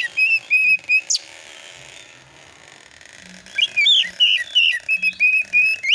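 Oriental magpie-robin singing in quick bouts of short whistled notes, with a sharp rising whistle about a second in and again at the end, and a pause of about two seconds in the middle. This is the excited, rapid-fire 'nembak' style of song.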